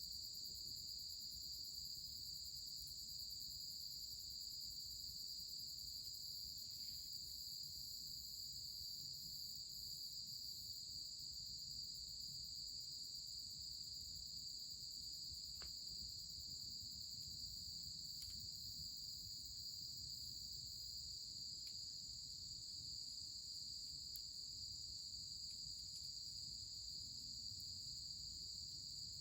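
Steady high-pitched insect chorus, a continuous chirring from crickets, with a few faint clicks in the second half.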